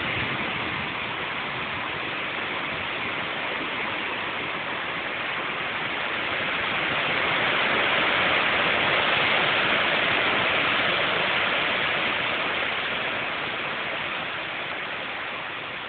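Strong storm wind gusting during Tropical Storm Irene: a steady rushing that swells to its loudest about halfway through and eases toward the end.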